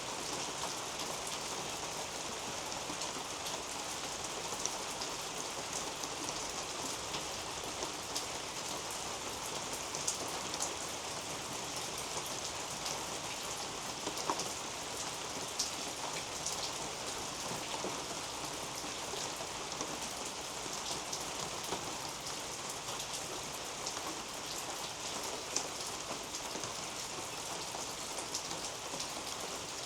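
Steady rain falling through a leafy garden canopy: a constant hiss of rainfall with many individual drops ticking on the leaves, a handful of louder drop hits standing out now and then.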